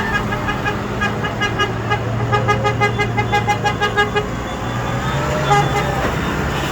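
A vehicle horn sounding a rapid series of short toots, about six a second, for around three seconds, over the low steady drone of passing tractor engines.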